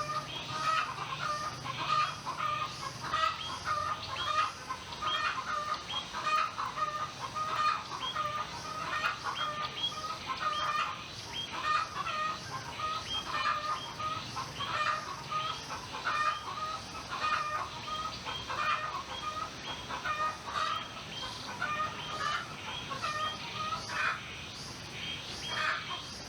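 Chickens clucking continuously, with many short repeated calls overlapping one another.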